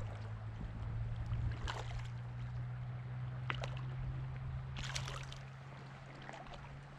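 River water running as a steady noise under a low constant hum, with a few short sharp clicks or splashes about two, three and a half and five seconds in.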